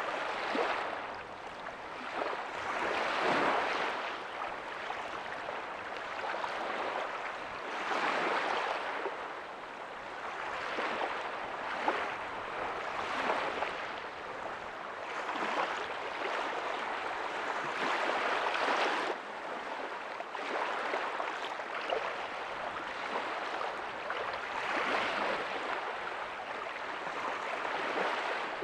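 Small ocean waves breaking softly on a beach, the surf washing in and out in irregular swells every few seconds.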